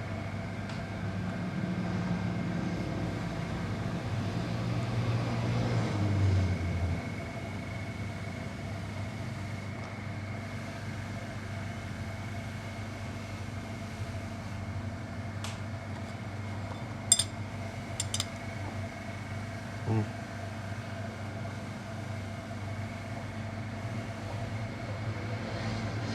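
Car engine running steadily at idle, with a few sharp metallic clinks and a knock about two-thirds of the way through.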